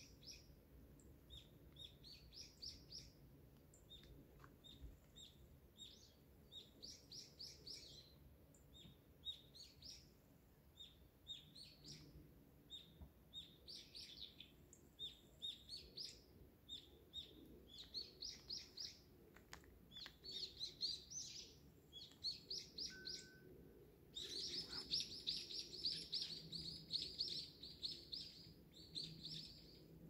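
Faint birdsong: small birds chirping in short high notes and quick trills, thickening into dense, almost continuous twittering near the end.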